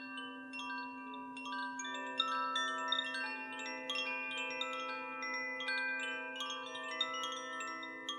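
Chimes ringing, many bright overlapping notes struck irregularly and left to ring, over a single steady low tone held underneath, as in a sound healing session.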